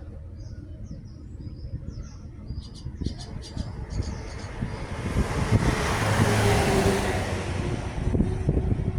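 A heavy truck passing by on the road: engine rumble and tyre noise swell up about halfway through, peak, then ease off near the end. Birds chirp over the traffic rumble in the first half.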